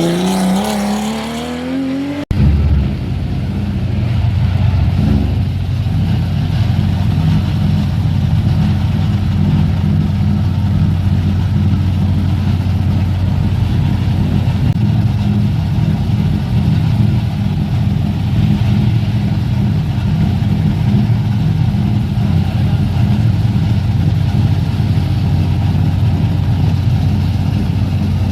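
Historic rally car engine rising in pitch as it accelerates, cut off abruptly about two seconds in by an edit. It is followed by a steady, unchanging engine note that runs on at one pitch.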